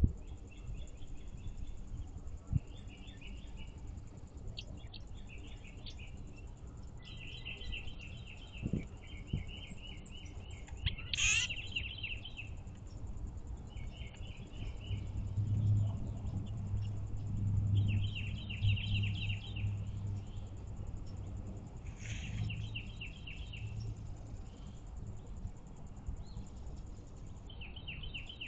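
A songbird repeating a short, fast trill every few seconds, with a sharper, higher call about eleven seconds in. A low hum swells for a few seconds midway.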